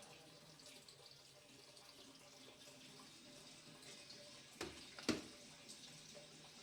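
Faint splashing and handling of wet things while a refrigerator is cleaned, with two sharp knocks about half a second apart a little past the middle, the second louder.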